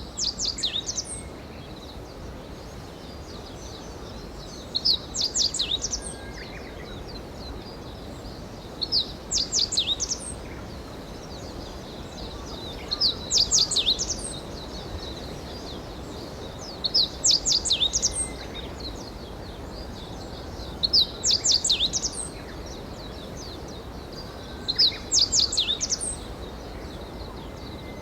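Wild songbird singing, repeating the same short phrase of rapid high notes about every four seconds, over a steady low forest hiss.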